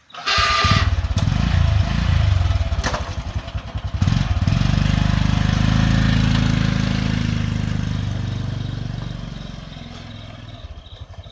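196 cc single-cylinder small engine started with a sudden pull and running, its speed picking up about four seconds in, then winding down and fading near the end.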